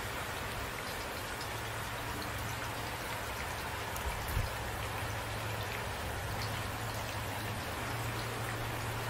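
Steady rain falling, with individual drops ticking on a surface, and a brief low thump about four seconds in.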